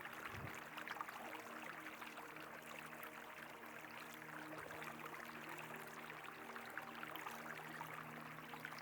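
Faint, steady rush of flowing river water, with a low steady hum beneath it.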